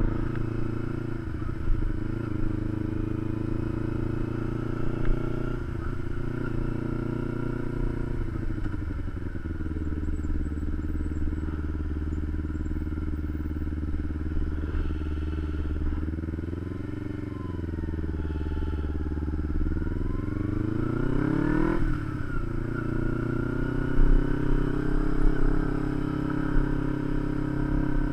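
Kawasaki Ninja 250 parallel-twin engine running while riding at low speed. The revs fall off about a third of the way in, then climb steadily and drop sharply near the three-quarter mark.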